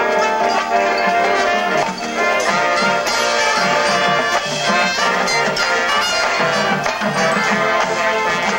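Youth marching band playing its field show, brass to the fore, loud and continuous.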